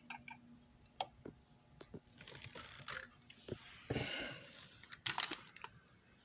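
Light clicks, taps and rustling of a small plastic model passenger car being handled on the workbench, with a cluster of sharper clicks about five seconds in.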